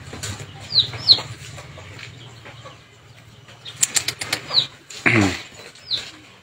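Short, high, falling chirps of small birds, heard about four times, with a quick run of sharp clicks like flapping wings just before four seconds in. A brief louder call sounds at about five seconds, over a low steady hum that fades out.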